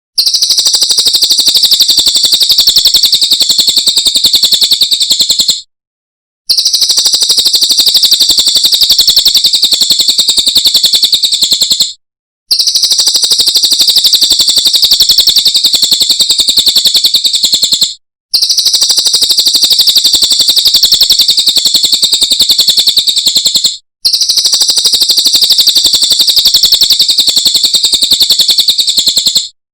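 Cililin birdsong: a loud, very rapid, high-pitched chattering trill, repeated in five runs of about five and a half seconds with a short break between each.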